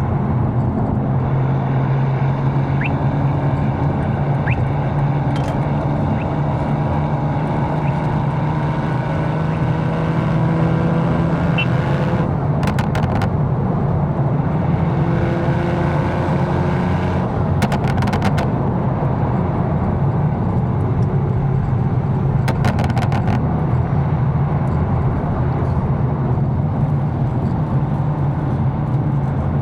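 Inside the cabin of a tuned BMW M4 cruising on the road: a steady low engine drone under road and tyre noise. Three short runs of rapid clicking come partway through.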